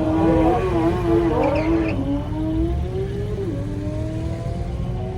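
Performance car engines accelerating. After some early wavering revs, the pitch climbs steadily, dropping and climbing again at a gear change, over a deep exhaust rumble.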